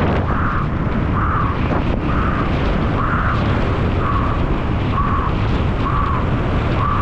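Mountain bike descending at race speed: a loud, steady rush of wind buffeting the microphone over a rumble from the tyres, with a brighter pulsing sound about once a second.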